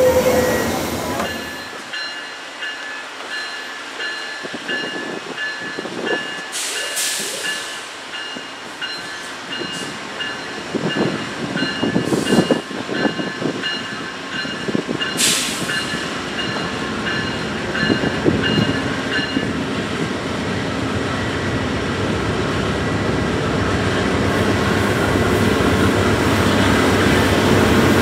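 Train approaching, its rumble building steadily through the second half. A bell rings steadily, about twice a second, until about two-thirds of the way through, and there are two short hisses.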